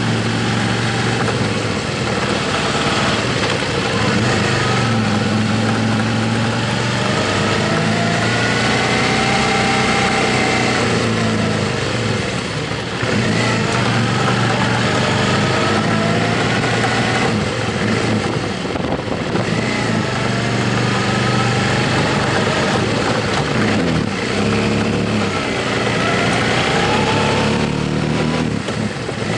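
Motorcycle engine running while riding, its pitch rising and falling several times with the throttle, over a steady rush of wind noise.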